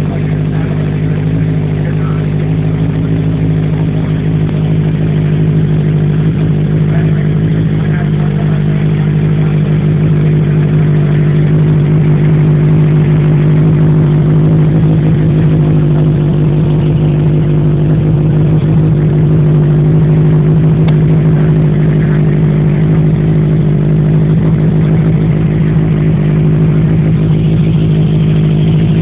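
Honda CB750 inline-four motorcycle engine idling steadily through a carbon fiber muffler.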